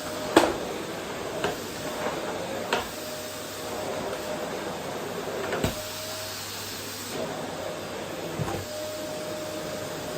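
Vacuum cleaner running steadily with a whine, being pushed over a wooden floor. About five sharp knocks and clacks come through it, the loudest about half a second in.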